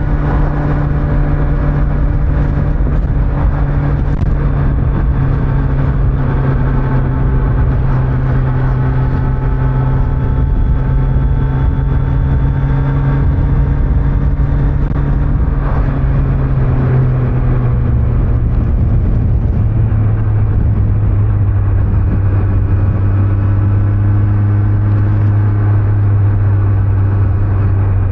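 Kawasaki Z900's inline-four engine running under way on its stock exhaust, its pitch easing slowly down over the first twenty seconds or so, then holding steady. Road and wind noise rumble underneath.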